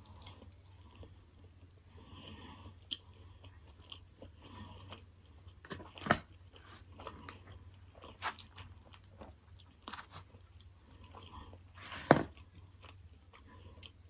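A person chewing and biting food close to the microphone, with many short mouth clicks; the sharpest come about 6 and 12 seconds in.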